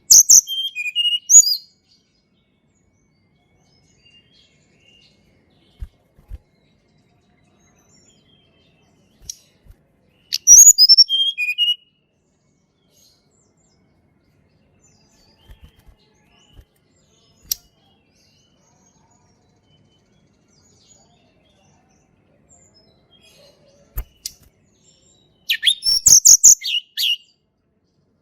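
Tledekan gunung, a small flycatcher, singing three short phrases of high, quick notes that step down in pitch: one at the start, one about ten seconds in and one near the end, with silence and a few faint clicks between them.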